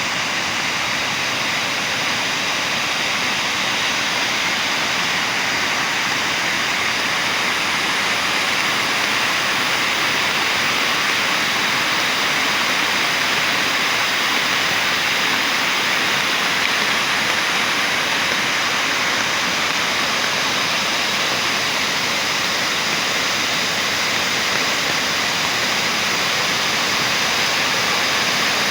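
Heavy rain falling steadily, an even dense hiss with the rush of running water, growing slightly louder.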